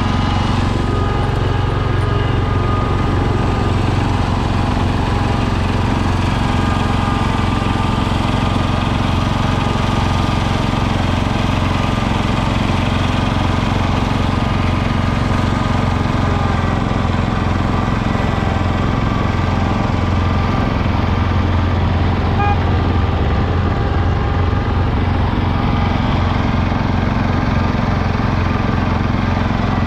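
Garden tractor engine running steadily at a constant speed.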